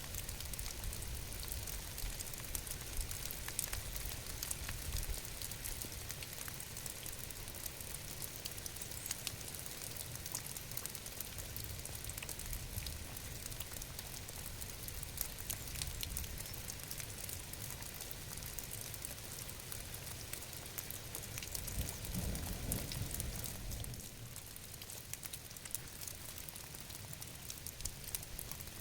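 Steady rain falling, with many small drop ticks over a low rumble. The low rumble swells briefly a little after twenty seconds in, then eases off.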